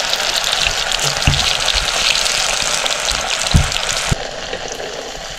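Potato chops frying in hot oil, a steady sizzling and crackling, with a few dull knocks; the sizzle drops a little about four seconds in.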